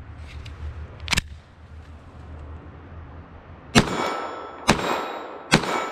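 Glock 44 .22 LR pistol: one sharp clack about a second in, then three shots just under a second apart, each followed by a metallic ring.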